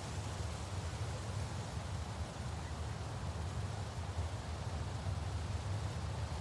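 Wind blowing through tree branches: a steady rushing noise with a low rumble underneath.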